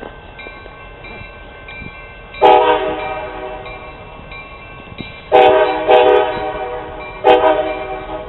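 Diesel locomotive's multi-chime air horn sounding four blasts: a long one, two close together a few seconds later, then another that is still sounding at the end. This is the pattern sounded for a grade crossing.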